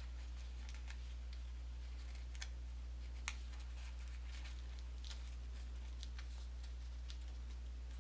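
Paper being folded and creased by hand: scattered faint crackles and clicks, a sharper one about three seconds in, over a steady low electrical hum.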